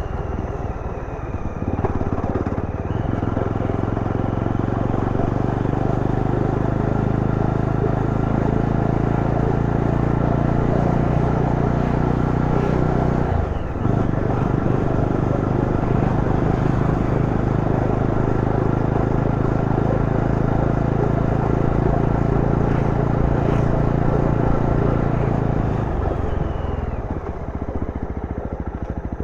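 Yezdi Roadster's 334 cc single-cylinder engine running at steady riding revs, with a brief break in the engine note about halfway through and the engine easing off near the end.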